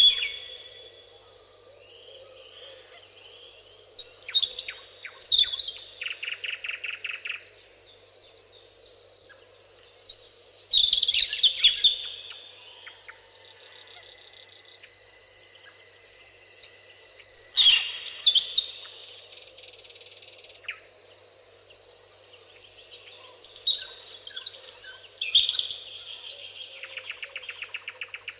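Songbirds singing in a meadow: loud whistled and chirping phrases every several seconds, with fast rattling trills between them, over a steady high-pitched buzz in the background.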